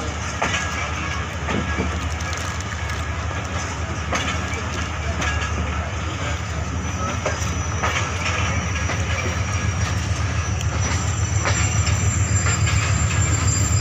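Passenger train running along the track, heard from inside a carriage: a steady low rumble with scattered wheel clacks over rail joints, growing louder near the end.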